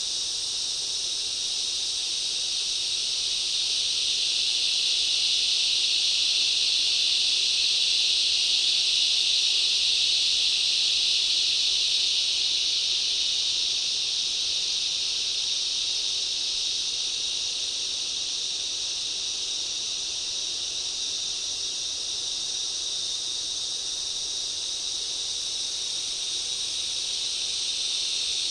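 Steady, high-pitched insect chorus of forest ambience, a dense shrill drone that swells a little a few seconds in and eases again.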